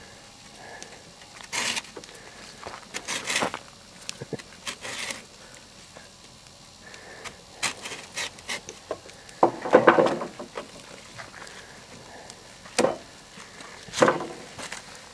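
Hand saw cutting into a log in short, halting, irregular strokes, with pauses between them: the blade catches and won't run smoothly both ways.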